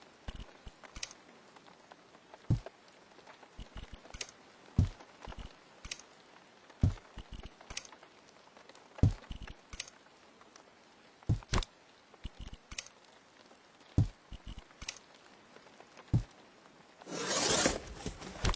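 Irregular knocks and taps, roughly one every second or so, with a burst of noise lasting about a second near the end.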